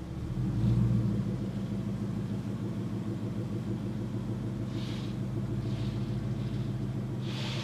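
Ford Mustang Boss 302's 5.0-litre V8 idling with a low, steady rumble as the car creeps forward, swelling slightly about a second in.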